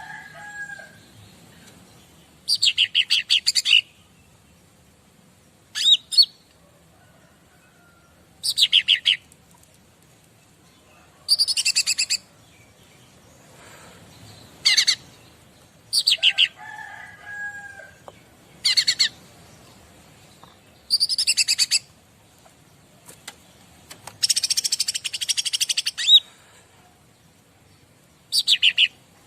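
Cica ranting songbird singing: short, high, rapid trilled phrases repeated every two to three seconds, with a couple of softer, lower whistled notes in between.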